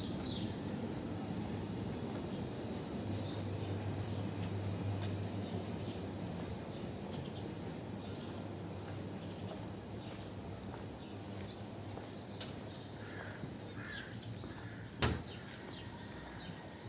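Outdoor ambience on a seaside promenade: a steady background hum with bird calls, including a quick run of high chirps in the first half, and a single sharp click about fifteen seconds in.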